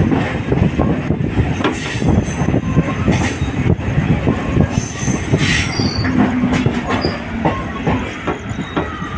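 Local passenger train running, heard from aboard the coach: steady rumble of the wheels on the rails with a rapid clatter of knocks, and a few brief high-pitched wheel squeals.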